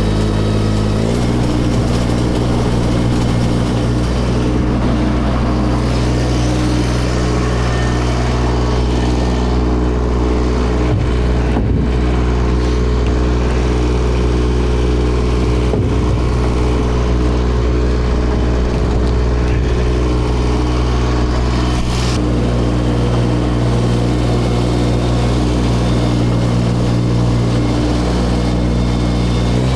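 A vehicle engine running steadily at raised speed; it revs up about a second in and drops back at the very end.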